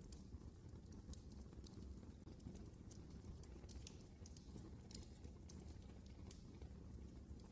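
Fire burning in a fireplace: faint, irregular crackling with quick sharp pops, several a second, over a low steady rumble.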